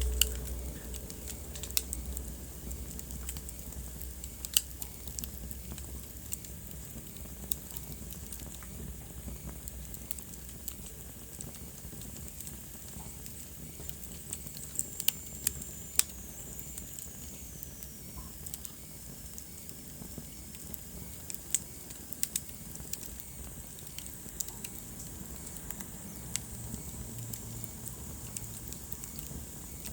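Wood fire burning in a fireplace: a steady soft hiss with irregular sharp crackles and pops, and a thin whistle falling in pitch about halfway through.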